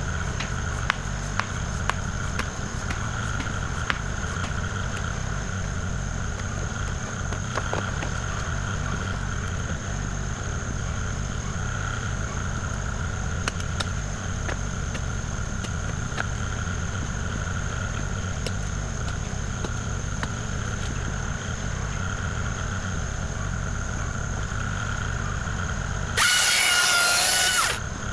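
Diesel engine of a Kubota KX040 compact excavator running steadily, with a constant high whine and scattered light clicks. Near the end there is a loud burst of about a second, with a wavering high squeal in it.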